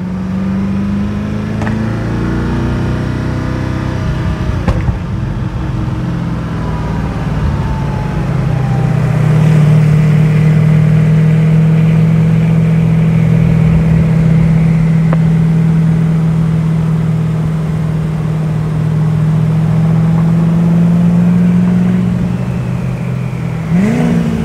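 Koenigsegg Agera RS twin-turbo V8 engines rolling at low road speed, the engine note shifting pitch a few times in the first seconds, then held at steady revs through the middle and easing off near the end.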